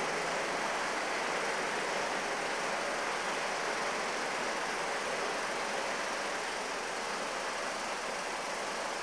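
Steady running noise of a diesel multiple unit heard across the station at a distance, an even wash with no distinct knocks, horns or announcements.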